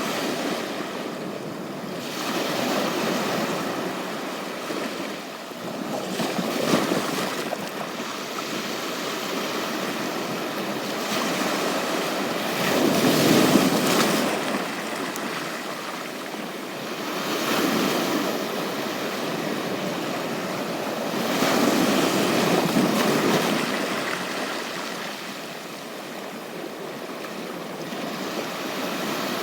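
Sea waves breaking and washing up a beach, swelling and easing off about every four to five seconds.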